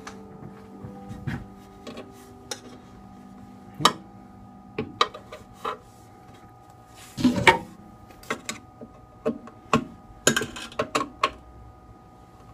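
A bare hacksaw blade held by hand rasping and clicking irregularly as it cuts a screwdriver slot into the head of a stripped Allen head bolt, with a longer stretch of scraping about seven seconds in and a quick run of strokes near ten seconds. A faint steady hum sits underneath.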